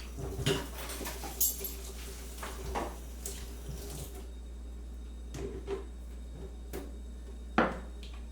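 Kitchen clatter of crockery and utensils: a string of light knocks and clinks, spread out, with the loudest knock near the end.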